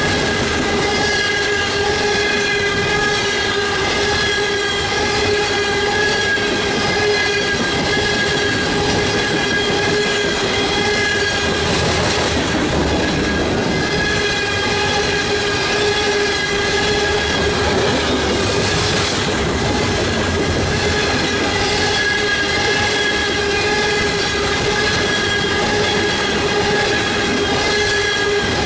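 Freight train's open-top coal cars rolling past at speed: a steady loud rumble and rattle of steel wheels on rail, with a steady ringing squeal from the wheels that holds throughout.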